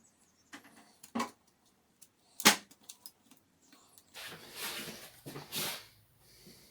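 Small parts being handled while a laptop is taken apart: a few sharp clicks and taps, the loudest about two and a half seconds in, then a couple of seconds of scraping and rustling.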